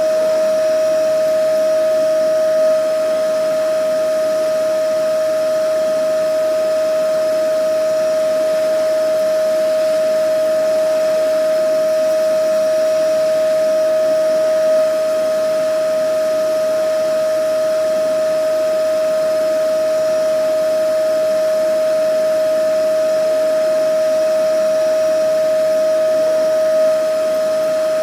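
Vacuum cleaner running steadily: a constant high motor whine over rushing air noise, with a slight swell about every twelve seconds.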